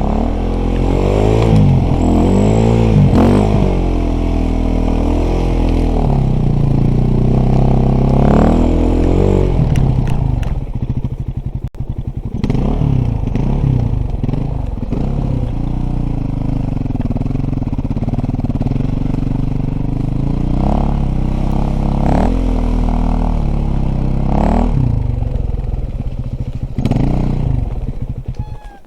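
Dirt bike engine revving hard up and down, pitch climbing and dropping over and over while it is ridden over rough ground, with some clatter; the engine sound stops suddenly near the end.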